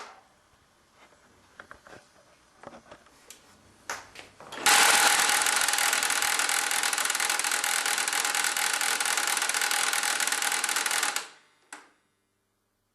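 HP LaserJet 1150 laser printer's mechanism: a few faint clicks, then a loud, steady mechanical noise with a whine in it for about six seconds, cut off sharply, with one short burst after. The printer is dead, and the noise comes from an unknown internal fault.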